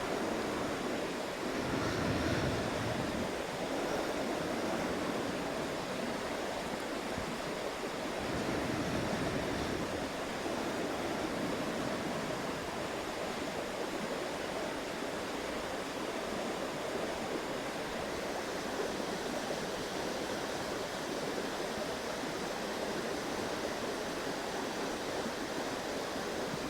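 A flowing river rushing steadily, an even wash of water noise that swells slightly a couple of times.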